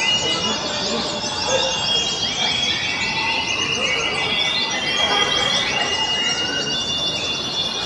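White-eyes (pleci) singing over one another: rapid, high twittering trills overlapping with long held whistled notes, several birds at once, over a steady hiss.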